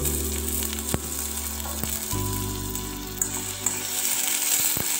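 Onions and chopped tomatoes sizzling in hot oil in a stainless steel kadai, stirred with a spoon that clicks against the pan a few times.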